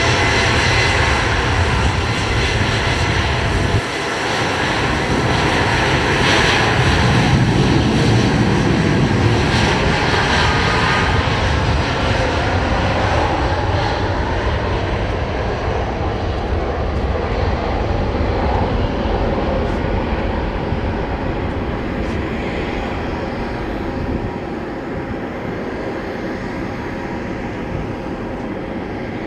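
Jet airliner's engines at high power passing by: a loud, rushing noise with a steady whine, loudest several seconds in, then slowly fading away.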